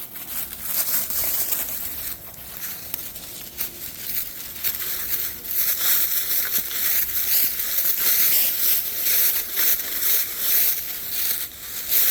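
Continuous crunching and rustling of dry brush and leaves underfoot while walking through vegetation, a dense run of small crackles that thickens about halfway through.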